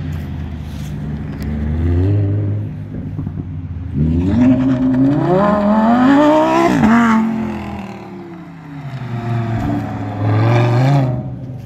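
Exotic sports car engine revving: its pitch climbs for about three seconds from about four seconds in, then drops sharply, followed by a shorter rise and fall near the end.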